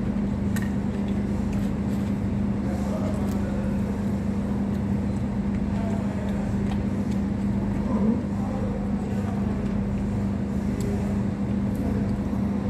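A steady low mechanical hum with a constant tone and a low rumble under it, and faint voices in the background.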